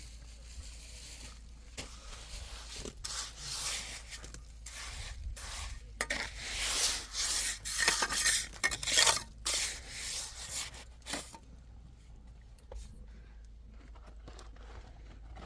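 Irregular scraping, rubbing and clattering of objects being handled, loudest in the middle and dying down after about eleven seconds.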